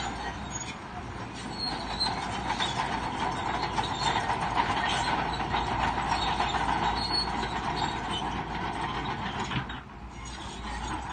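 Crawler bulldozer working, its steel tracks clanking and squealing over the steady run of the engine. The sound dips briefly near the end.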